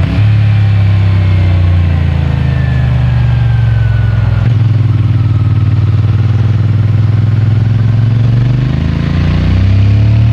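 CFMOTO 450MT parallel-twin engine and exhaust under way, heard from a mic in the rider's pocket. The revs fall away over the first few seconds, there is a brief break about four and a half seconds in, then the engine runs steadily and picks up revs again near the end.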